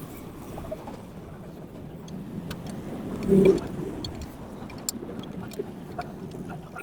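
Light metallic clicks and clinks of hand tools and engine parts as a motorcycle cylinder head is fitted, over a steady low hum of background traffic. About three and a half seconds in comes one short, loud, pitched sound.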